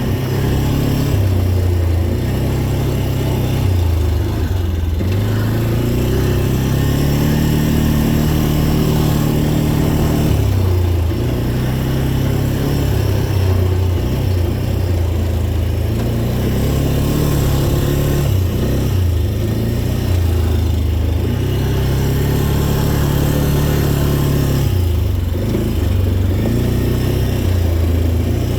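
Dirt bike engine revving up and falling back over and over as the throttle is opened and closed, its pitch rising and dropping every few seconds.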